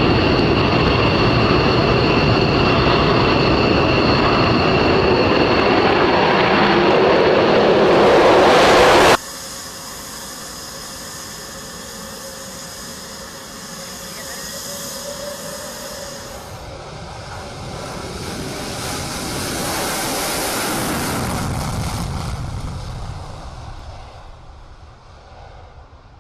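Jet fighter engine noise with whining tones, cut off abruptly about nine seconds in. A quieter jet pass follows, rising to a peak a little past the middle and then fading away.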